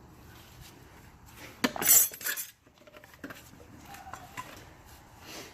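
Metal transmission clutch plates clinking together as they are handled, with a quick clatter of clinks about two seconds in and a few lighter clinks after.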